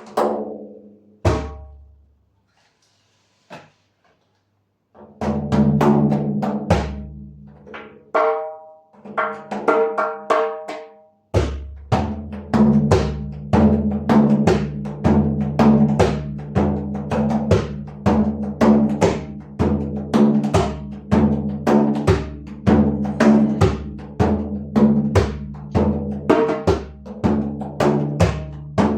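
Hand-played drum with ringing, pitched strikes: a few scattered hits at first, a looser pattern from about five seconds in, then a quick steady rhythm from about eleven seconds in.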